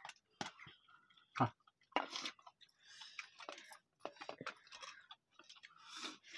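People eating rice and tomato curry with their hands: close, wet chewing and lip smacking with scattered sharp clicks, the loudest about a second and a half in.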